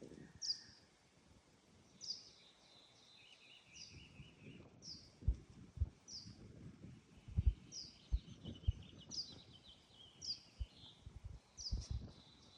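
Songbirds singing: a short downward chirp repeated about once a second, over a softer trill. Several low thumps come in the second half.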